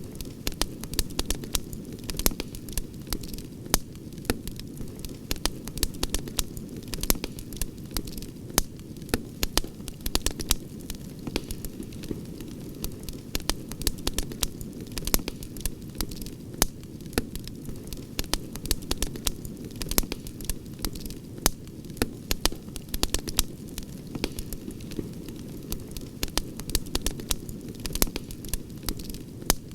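Campfire crackling: frequent sharp pops and snaps over a steady low rush from the flames.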